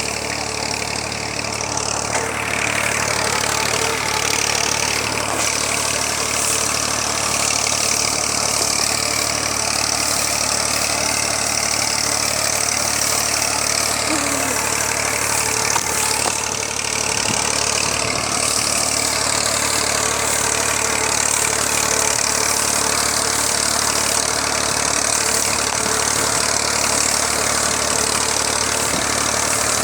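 Tractor engine running steadily at idle, a continuous even engine noise with a low hum that picks up slightly in the first couple of seconds and then holds.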